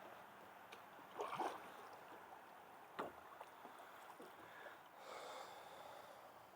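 Faint kayak paddling: a soft splash about a second in, a sharp knock about three seconds in, and a softer wash of water near the end.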